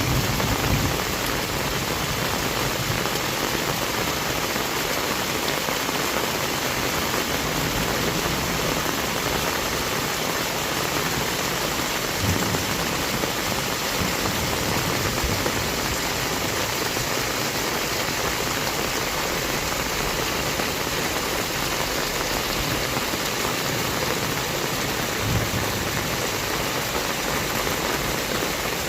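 Heavy rain falling steadily, with two brief low thumps, one about twelve seconds in and one near the end.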